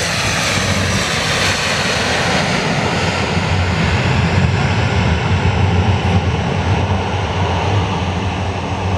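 Airbus A400M's four TP400 turboprop engines running loud during a short landing with maximum braking, a deep propeller hum over heavy noise that swells to its loudest in the middle.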